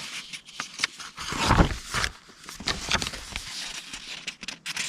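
Paper task cards being handled and leafed through, rustling with small clicks and taps, with a louder rustle about one and a half seconds in.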